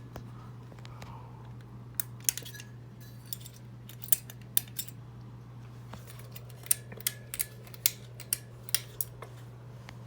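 Harbor Breeze Armitage II ceiling fan running, its motor giving a steady low hum, with sharp metallic clicks and ticks coming at irregular intervals, some in quick clusters.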